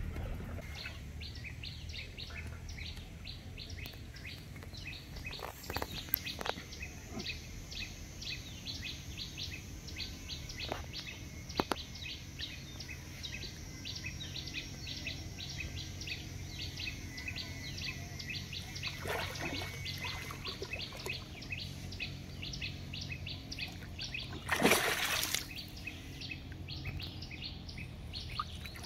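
A bird chirping over and over, several short high chirps a second without a break, over the wet rustle and splash of a cast net being hauled in by hand from a pond. Late on comes a louder splash as the net is lifted from the water.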